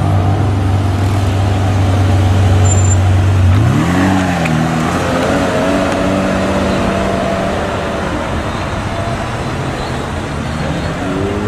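Ferrari F512 M's flat-twelve engine running at a steady low note, then revving up sharply about three and a half seconds in as the car pulls away, the note easing and fading over the following seconds.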